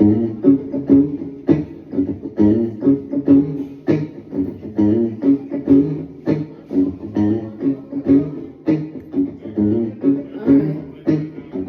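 Live band playing an instrumental passage with no vocals: plucked guitar and bass over a steady beat.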